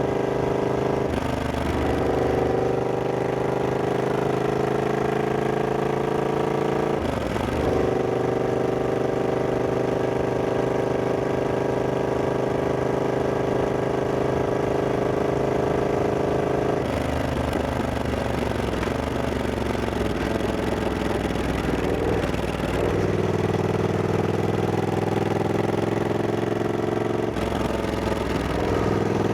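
Triumph Scrambler 1200X's 1200 cc parallel-twin engine running under way, its note climbing slowly through each gear. It is interrupted about five times by brief gear changes.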